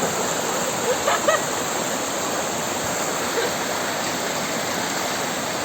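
Water of a waterfall rushing steadily.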